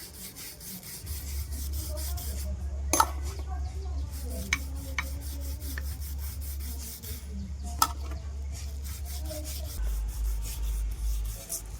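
Quick, regular rasping strokes of hand-filing on metal, over a steady low hum. Two sharp metallic knocks come about three seconds in and near eight seconds.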